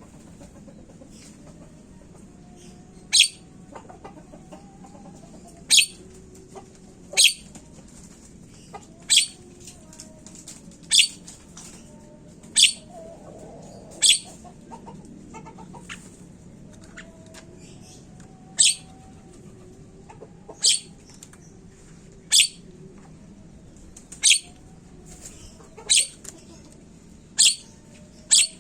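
Javan myna (jalak kebo) giving short, sharp, loud calls, about fourteen of them, one every one and a half to two seconds with a pause near the middle. Faint lower bird calls sound in the background.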